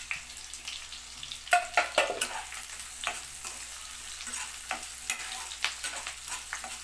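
Sliced onions and curry leaves frying in hot oil in a kadai, a steady sizzle with a spoon stirring and scraping the pan. The loudest clatters come about one and a half to two seconds in.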